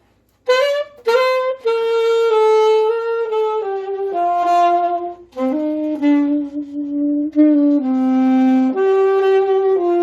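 Saxophone playing a slow melody of held notes, starting after a brief pause and sliding up into its first note.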